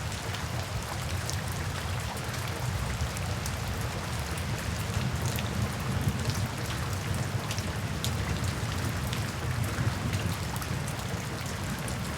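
Steady rain falling, with scattered individual drops ticking over a low rumble.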